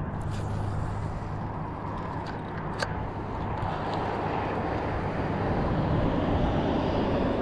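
A distant engine running steadily, growing louder toward the end, with a single sharp click about three seconds in.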